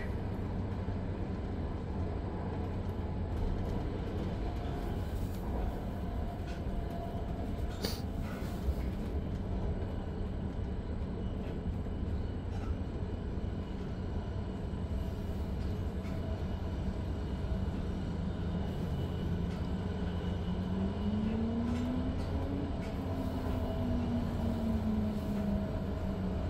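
Swiss Re 450-hauled double-deck DPZ commuter train running, heard inside a passenger coach: a steady low rumble of wheels on rails with the hum of the drive. Near the end a whine from the traction equipment rises in pitch, then falls away again.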